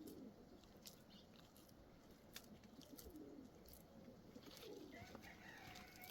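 Faint cooing of a dove: a few low coos spaced a couple of seconds apart, with scattered soft clicks.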